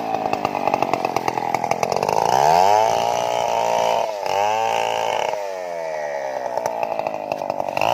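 Stihl two-stroke chainsaw running and revving, its engine pitch climbing to full speed and dropping back several times, with a fast rattle in the first couple of seconds.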